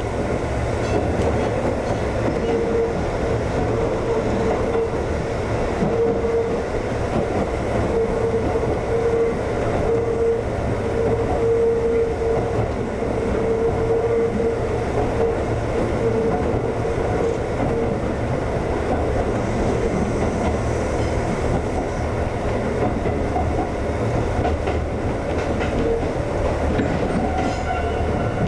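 Konan Railway 7000-series electric train (ex-Tokyu 7000 series) running along the line, with steady rumbling and wheels clicking over rail joints. A wavering mid-pitched whine comes and goes for much of the first two-thirds and briefly again near the end.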